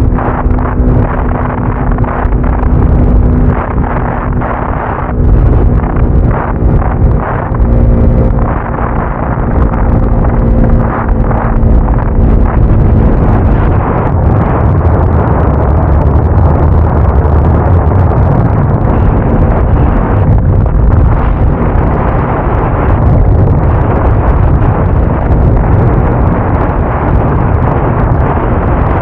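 Motorcycle engine running at a steady pitch under heavy wind buffeting on the microphone while riding. The engine note fades under the wind a little over halfway through and comes back a few seconds later.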